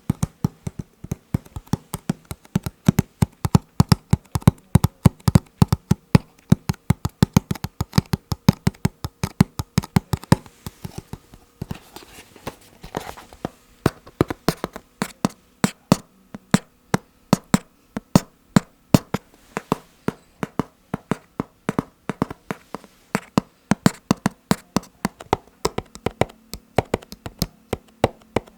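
Fingertips tapping rhythmically on hard objects, quick crisp taps several a second, with a softer, lighter stretch about halfway through.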